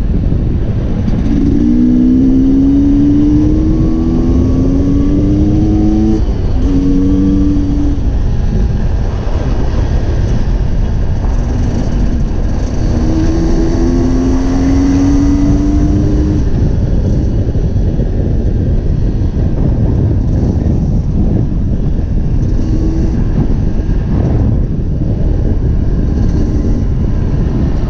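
Dirt bike engine running under way, its pitch climbing steadily for a few seconds as it accelerates, twice: about two seconds in and again about thirteen seconds in.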